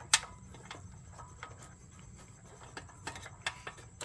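Small clicks and taps of hands fitting an inline fuel shutoff valve and hose clamps into a rubber fuel line, with one sharp click just after the start and a few more clicks about three seconds in.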